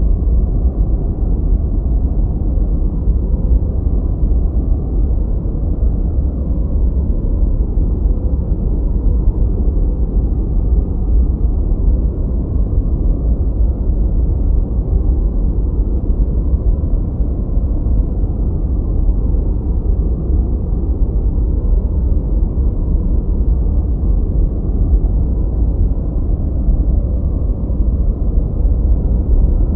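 Continuous generated noise track sold as white noise, steady and unchanging, deep and rumbling with most of its energy in the low end and almost no high hiss.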